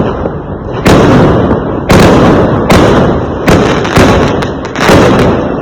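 Fireworks exploding in quick succession: about seven loud bangs at uneven intervals, each trailing off in a rumbling, crackling tail.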